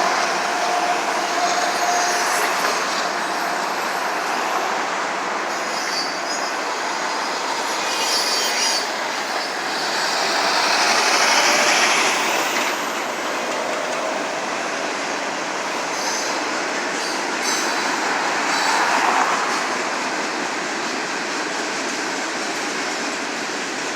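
Florida East Coast Railway train cars rolling past, a steady rumble and clatter of wheels on rail. A high wheel squeal rises about halfway through.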